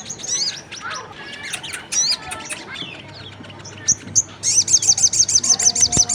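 Sunbird lure calls mixing sogon and kolibri kelapa (brown-throated sunbird) voices: scattered high chirps and quick up-and-down whistles, then a fast, even trill of sharp chirps, about eight a second, from about four seconds in.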